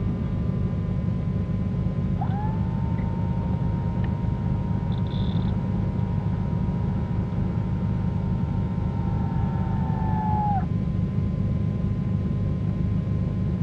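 Cabin drone of the Cessna 310Q's twin piston engines running at taxi power, a steady low rumble. About two seconds in, a steady high tone rises in and holds for about eight seconds before dipping away.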